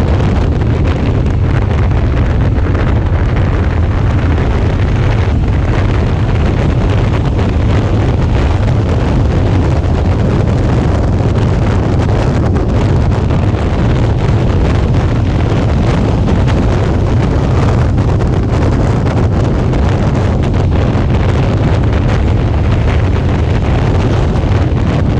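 Steady wind noise buffeting an action camera's microphone on a moving motorcycle, over the low, continuous running of a Suzuki V-Strom 650's V-twin engine at cruising speed.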